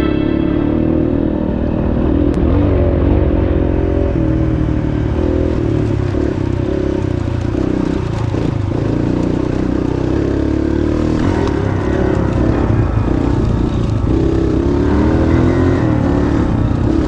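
Dirt bike engine running while under way, its pitch rising and falling with the throttle.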